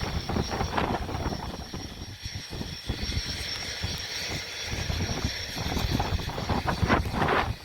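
Gusting wind buffeting the microphone in uneven rumbles, with a steady faint high-pitched tone underneath.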